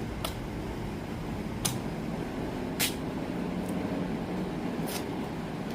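Steady low background rumble with five short, sharp clicks scattered through it, roughly one a second.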